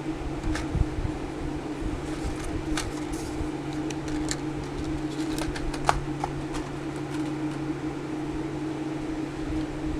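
Steady electric fan hum with a constant low drone, with a few light clicks and taps scattered through the first several seconds.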